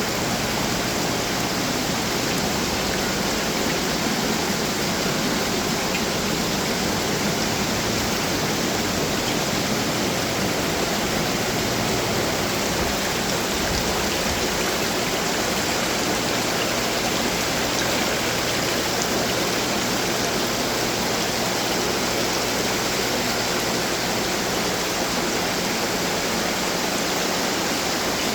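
Water falling and splashing from running garden fountains, a steady, even rush.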